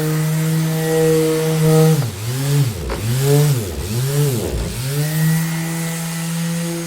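Electric orbital sander running with a steady motor hum. Midway through, its pitch swoops down and back up three times in quick succession, then it settles back to a steady run.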